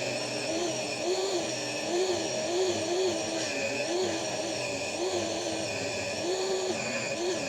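Electric power saw ripping lengthwise through a thick pallet board: a steady motor whine whose pitch wavers up and down about every second as the blade loads in the wood.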